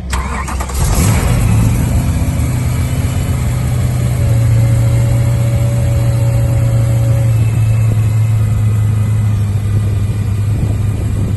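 A car engine running loud and steady, picking up about a second in.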